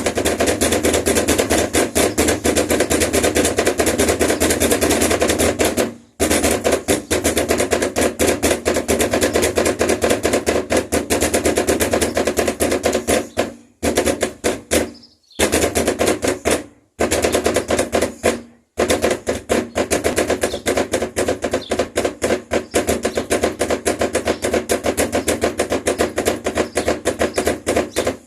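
Rapid, continuous knocking on a door, many knocks a second in long loud runs, broken by a few brief pauses around the middle.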